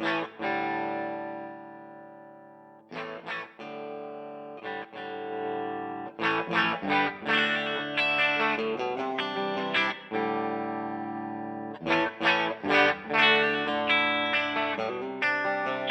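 Electric guitar played through a DVII guitar amplifier with reverb. A chord rings out and fades for about two and a half seconds, then come strummed chords, some held, and a quicker run of strums near the end.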